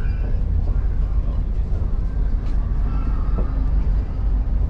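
Steady low rumble inside a TER regional train carriage, with faint voices mixed in.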